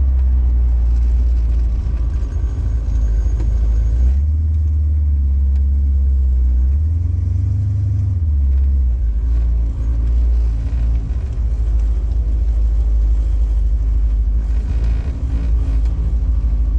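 1969 Chrysler New Yorker's 400 V8 running with a steady low exhaust note through Dynamax Ultraflow mufflers dumped ahead of the rear axle. The pitch rises briefly about seven seconds in, then settles back.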